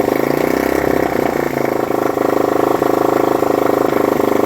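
Rebuilt Honda CB125 RS single-cylinder four-stroke motorcycle engine running at a fast idle, its speed rising and falling back about a second in. The engine will only keep running at a high idle, a sign of its worn contact-breaker points.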